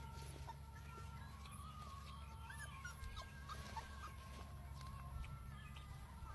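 Faint, short high squeaks and whimpers of a puppy, over a steady low hum.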